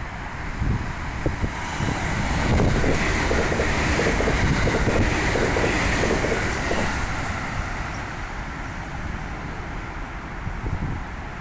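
Electric commuter train passing a station platform. Its wheel and track noise builds to a peak midway and then fades as the train draws away.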